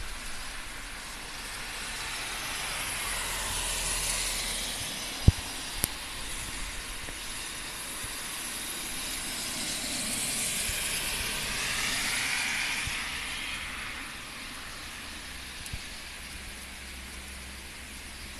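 Steady hiss of heavy rain. Twice it swells with a sweeping hiss of tyres passing on the soaked road, around four seconds in and again about ten to thirteen seconds in. Two sharp clicks come about five and a half seconds in.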